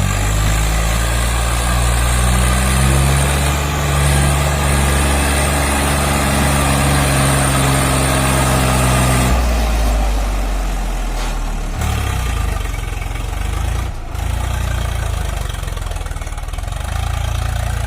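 Swaraj 744 tractor's diesel engine running hard under a heavy load with a fully loaded trolley. The note holds steady for about nine seconds, then changes suddenly to a lower, rougher sound.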